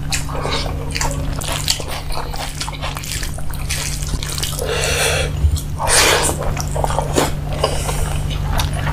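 Close-miked mouth-eating sounds: wet chewing and lip smacks from eating chicken and rice by hand, with a few louder slurps about five and six seconds in, over a low steady hum.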